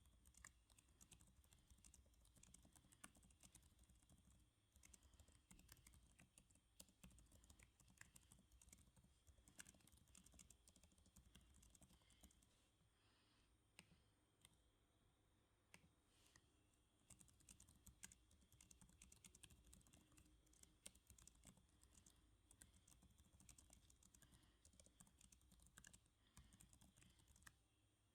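Faint, continuous typing on a computer keyboard: quick runs of key clicks, with a pause of a few seconds about halfway through.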